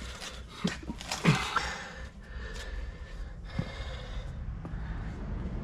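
Short non-speech vocal sounds from a person, a gasp or snort-like breath with one falling squeal about a second in, among a few light clicks over a steady low hum.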